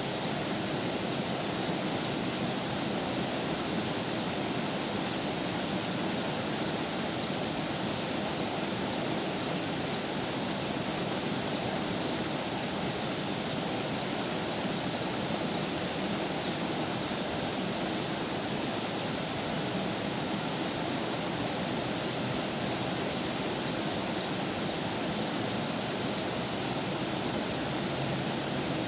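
River water flowing steadily over rocks, a constant rushing hiss without breaks.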